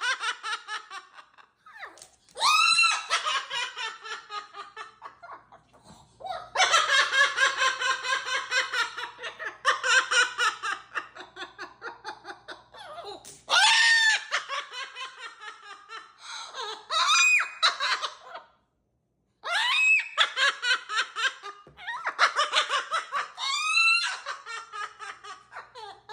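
A parrot mimicking an evil laugh: repeated bouts of rapid, high-pitched ha-ha pulses, several opening with a rising whoop, separated by short pauses.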